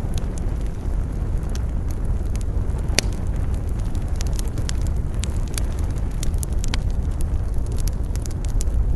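Wood fire crackling and popping, with a sharp crack about three seconds in, over a steady low rumble of wind.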